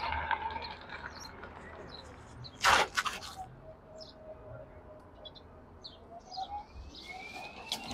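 Small birds chirping over steady outdoor background noise, with one loud sharp knock about three seconds in.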